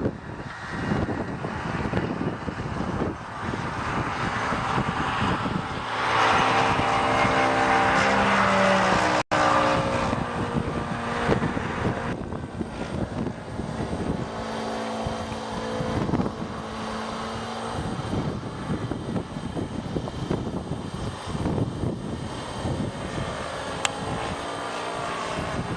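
Radio-controlled model airplane's motor and propeller droning in flight, its pitch sliding up and down as it passes, loudest about six to nine seconds in, over a gusty rushing noise. The sound cuts out for an instant about nine seconds in.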